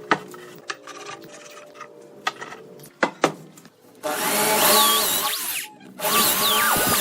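Scattered taps and knocks of wood being handled, then a handheld power tool working wood starts about four seconds in and runs loudly in two spells with a short break between.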